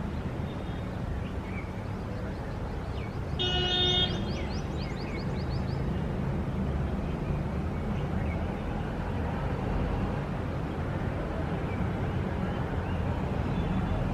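City street ambience: steady traffic rumble. About three and a half seconds in there is a short pitched blast, followed by a run of quick bird chirps.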